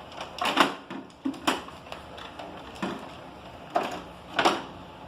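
Hard plastic toy parts being handled and knocked together, giving about five sharp, irregularly spaced knocks and clatters.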